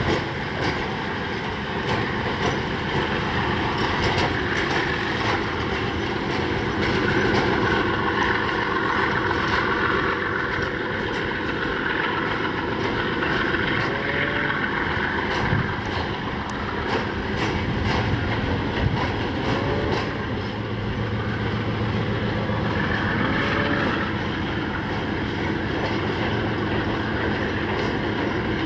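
ChME3 diesel shunting locomotive running under load as it hauls a work train, with the wagons' wheels rolling and clicking over the rail joints. A few faint brief squeals come through in the middle stretch.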